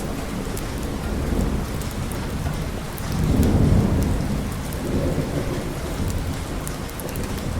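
Steady rain with a low rumble of thunder that swells about three seconds in and fades, a smaller roll following, over scattered sharp ticks.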